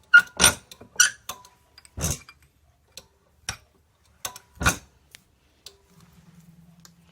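Irregular sharp clicks and clacks of small metal hardware and hand tools being handled, about ten of them, loudest in the first half; a faint steady low hum starts about six seconds in.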